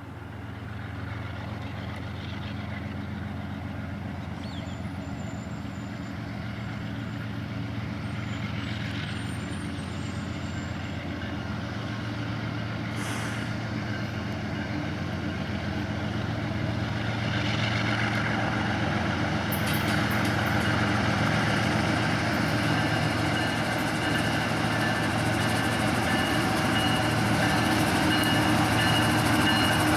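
Diesel locomotive engines of a Union Pacific train running with a steady low hum, growing louder as the train approaches. A rising hiss of wheels on rail joins in about halfway.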